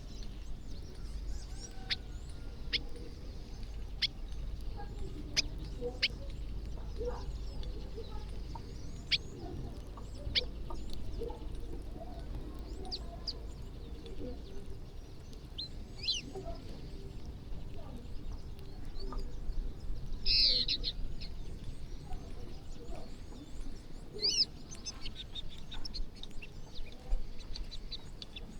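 A flock of birds calling while they feed on scattered rice: many short, sharp chirps at irregular moments over a low steady rumble, with one louder call about twenty seconds in.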